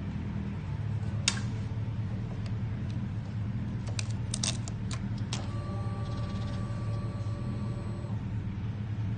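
Kawasaki Ninja 1000's inline-four engine idling steadily through an aftermarket Maverick full exhaust system. A few sharp clicks and clinks come about a second in and again around four to five seconds. A faint steady tone follows from about five and a half to eight seconds.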